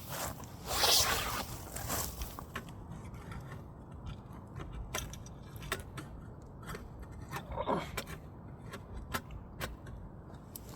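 Wood fire burning, with sharp irregular crackles and pops from the burning logs, and a short, louder noisy rush about a second in.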